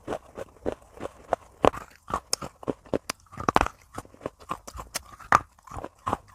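Crunchy food being chewed close to the microphone, a crisp crunch with each bite at about two to three crunches a second.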